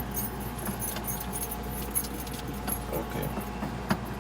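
Scattered light clicks and key rattles over a faint steady hum, with no engine cranking. The 6.0 LS engine fails to turn over, which the owner puts down to a flat battery.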